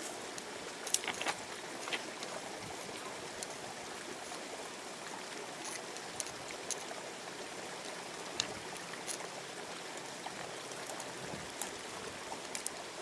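River water flowing steadily over stones, with a few small scattered clicks and knocks.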